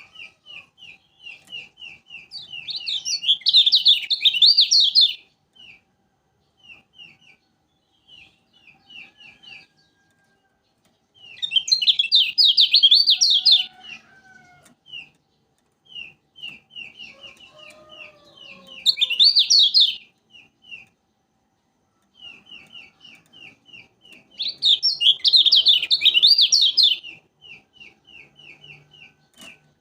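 Kecial kuning, a white-eye from Lombok, singing: a steady run of short high chip notes, about three to four a second, broken four times by loud, fast twittering song phrases of two to three seconds each.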